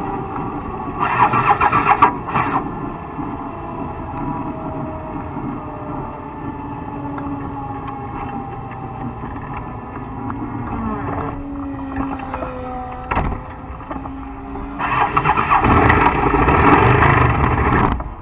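Motorcycle engine running, with pitch slowly drifting, and two louder spells of engine noise, one about a second in and a longer one near the end.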